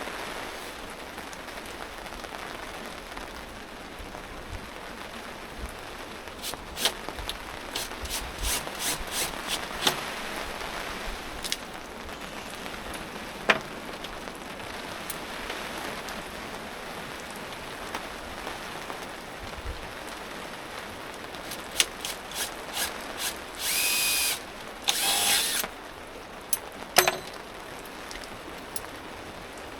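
Power drill-driver running in two short bursts of about a second each near the end, over a steady hiss of rain. Scattered clicks and a sharp knock come earlier.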